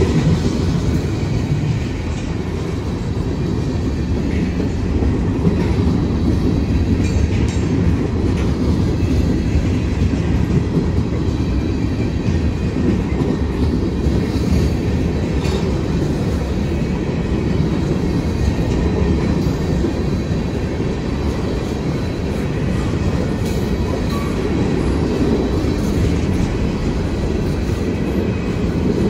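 Freight train cars, tank cars and then covered hoppers, rolling steadily past close by: a continuous rumble of steel wheels on the rails, with occasional faint clicks.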